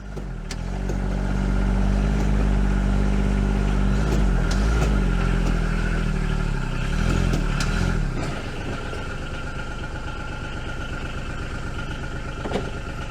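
John Deere Gator 850D's three-cylinder diesel engine running, its pitch dipping and rising a few times as the throttle changes, then settling into a quieter, steady run with a constant whine about eight seconds in.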